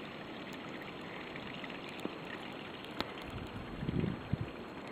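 Steady outdoor hiss with two sharp clicks, then a few soft low bumps about four seconds in.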